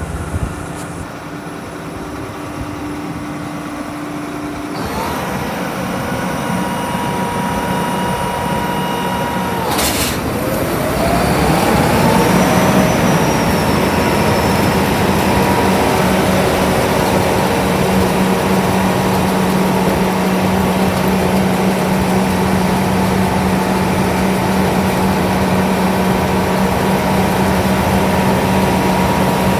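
John Deere S670 combine running. About ten seconds in there is a sharp click, then a rising whine as the machine speeds up, settling into a steady, louder run.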